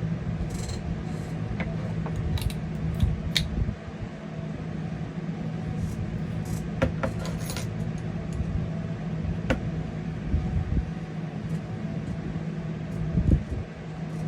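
Scattered light clicks and taps of small paintball marker parts being handled during reassembly, over a steady low hum.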